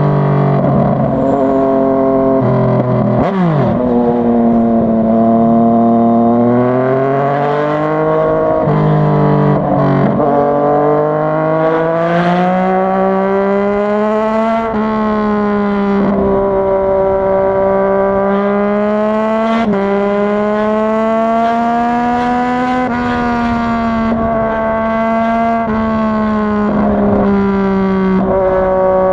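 Yamaha MT-09's three-cylinder engine under way, its pitch rising and falling with the throttle and broken by several sudden drops and jumps, including a sharp dip and climb about three seconds in.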